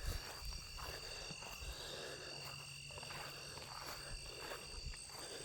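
Chorus of frogs and insects calling together: steady high trilling, with scattered croaks and a low rumble underneath.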